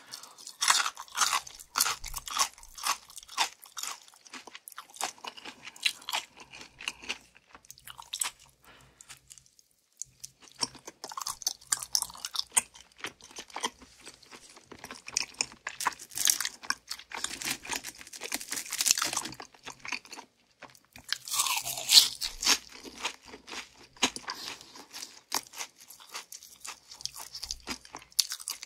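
Close-miked crunching and chewing of crispy fried chicken, one mouthful after another, with a short pause about a third of the way in.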